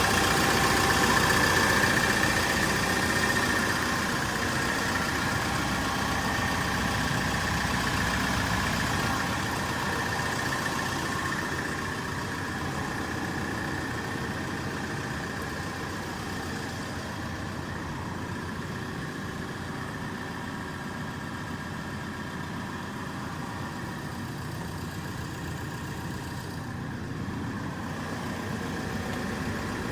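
Isuzu Elf truck engine idling steadily, easing a little in loudness over the first half.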